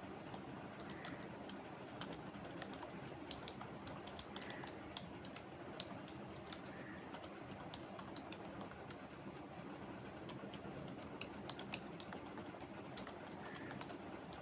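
Typing on a computer keyboard: irregular runs of keystroke clicks over steady low background noise.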